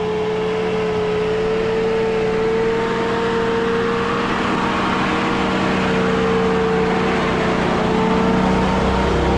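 GAZ-66 army truck's V8 engine pulling hard as the truck sets off into a deep puddle, with a steady whine held throughout and a rush of noise swelling through the middle.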